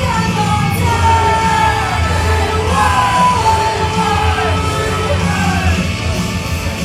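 Loud live idol song: a high singing voice gliding between notes over a heavy, guitar-driven rock backing.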